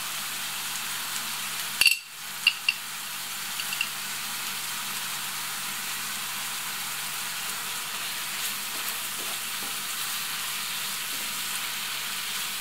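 Meat, carrot and onion frying in oil in a pan, a steady sizzle, with a few sharp clicks about two seconds in. Near the end the pan is stirred with a wooden spatula.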